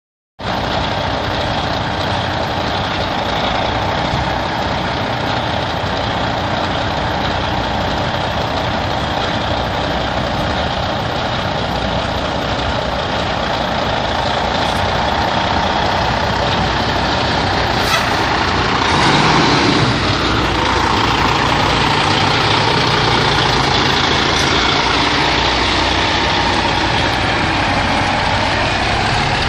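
Freightliner Classic tow truck's diesel engine running steadily. About two-thirds of the way through there is a brief sharp click followed by a louder surge, after which the engine note changes, rising near the end.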